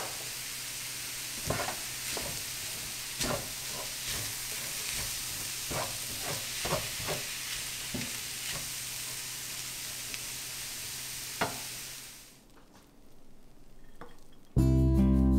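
Cauliflower fried rice sizzling in a stainless steel skillet as it is stirred, with irregular knocks and scrapes of a wooden spatula against the pan. The sizzle stops about twelve seconds in, and loud music starts just before the end.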